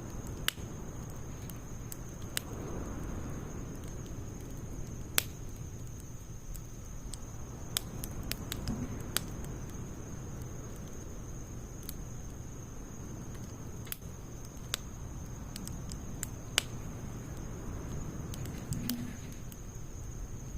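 Campfire of split firewood and pine needles burning, crackling with sharp, irregular pops every second or two over a low, steady rumble.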